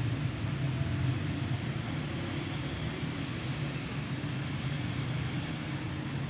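Steady low rumble with a hiss above it, unchanging throughout.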